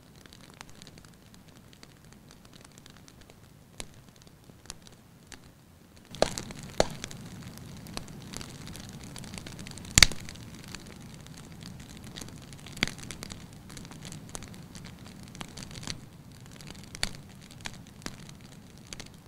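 Wood fire crackling in a fireplace: a steady hiss of flames with irregular sharp pops, growing fuller about six seconds in, and one loud pop about halfway through.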